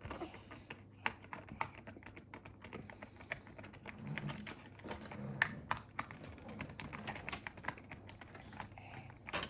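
Scattered light clicks and taps from a small diecast toy truck and its packaging being handled and worked free by hand.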